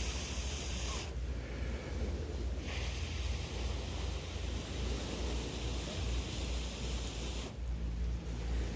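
Steady wind noise on the microphone: a low rumble under a broad hiss, with the hiss cutting out abruptly about a second in and again near the end.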